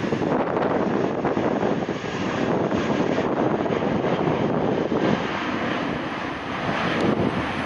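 Jet airliner taking off, its engines a steady, loud rush of noise, with wind on the microphone.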